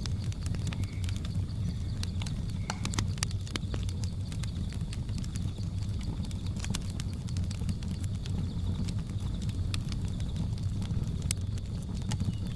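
Fireplace fire crackling with irregular sharp pops over a low steady rumble, with a constant high drone of jungle ambience behind it.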